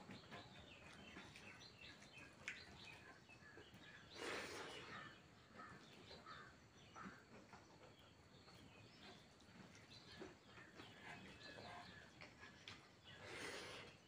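Near silence with faint eating sounds, small chewing and mouth clicks, and two brief louder noises, one about four seconds in and one near the end.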